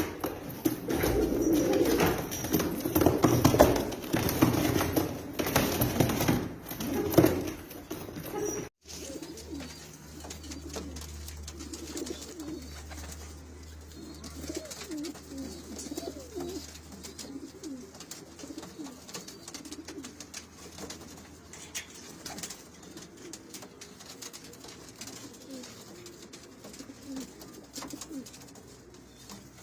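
Domestic pigeons cooing, many calls overlapping. The cooing is louder for the first third, then cuts off abruptly and carries on more quietly, with a low steady hum for a few seconds after the break.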